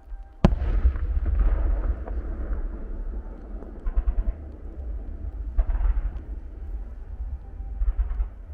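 Fireworks: an aerial shell bursts with a sharp bang about half a second in, followed by a long rumbling, crackling display. Further bursts swell up around four, five and a half, and eight seconds in.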